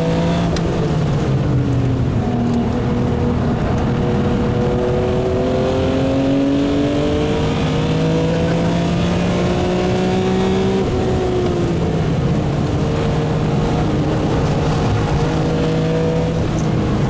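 BMW E36 M3 Evo's 3.2-litre S50B32 straight-six, fitted with high-lift Schrick camshafts, running hard on track. The engine note climbs slowly through long pulls and drops sharply three times, about half a second in, about two-thirds through and near the end.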